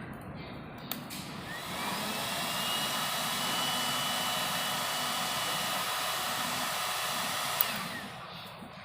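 Heat gun switched on with a click about a second in, its fan whining up to speed and blowing steadily, then switched off with a click near the end and winding down.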